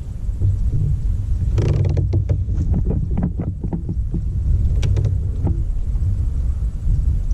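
Fishing kayak under way, giving a steady low rumble, with a quick string of knocks and clicks from about a second and a half in to about five and a half seconds in.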